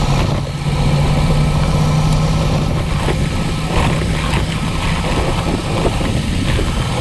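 Adventure motorcycle engine running steadily at low speed on a rough dirt mountain descent, with scattered short knocks and rattles over the rumble.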